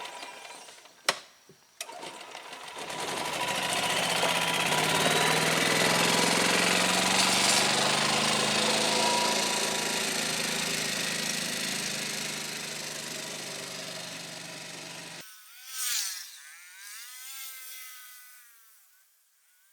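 Yamaha gas golf cart's small engine running under way, its pitch rising and then easing off over several seconds, after two sharp clicks near the start. About fifteen seconds in the engine sound cuts off abruptly, and quieter high chirping calls follow.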